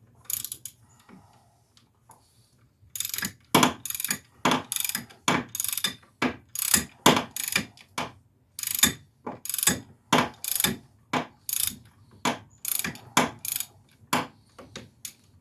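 Hand socket ratchet being cranked in quick back-and-forth strokes, about two a second, each stroke a run of clicks, running in a wheel bearing hub's mounting bolt. A few scattered clicks come before the steady cranking starts about three seconds in.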